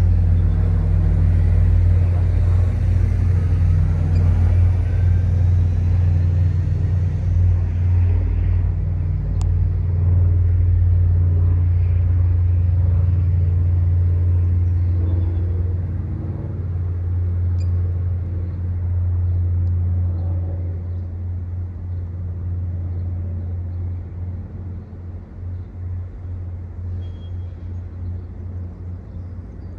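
Diesel train engine running with a deep, steady rumble that fades away over the second half, as the train moves off.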